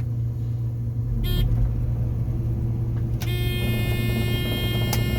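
John Deere 9500 combine running with a steady low drone. A short electronic beep sounds about a second in. About three seconds in, a steady high whine made of several tones starts and holds.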